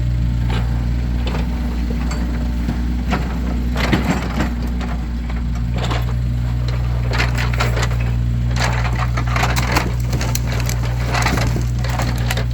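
Split firewood logs clattering and knocking against each other as they are stacked, in irregular clusters of wooden knocks that are busiest about a third of the way in and again through the second half. Under it runs a steady low hum.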